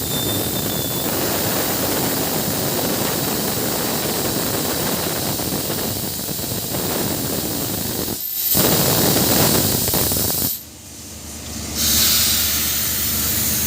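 Drilling rig machinery making a steady, loud rushing hiss. The hiss swells a little after 8 seconds, drops off suddenly near 11 seconds, then comes back strongly about a second later.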